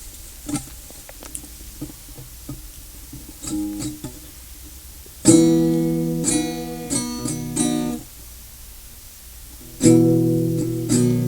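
Guitar playing a song intro: a few soft picked notes, then a loud strummed chord about five seconds in that rings out under a few choppy strums, and another strummed chord near the end.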